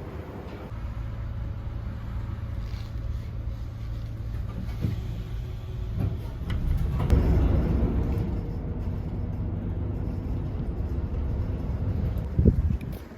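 A motor vehicle's engine running with a steady low rumble, swelling louder about seven seconds in, with a couple of short knocks near the end.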